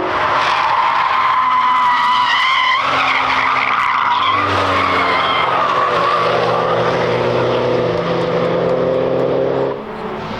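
Car tyres squealing as a car slides through a corner on the track, the squeal wavering in pitch over the engine; in the second half the engine note rises steadily, and the sound cuts off suddenly near the end.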